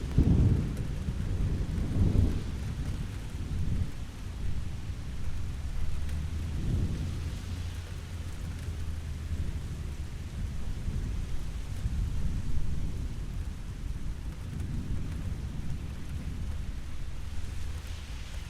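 Steady rain hissing, with thunder rumbling low underneath: a loud roll right at the start and again about two seconds in, then further swells of rumble through the rest.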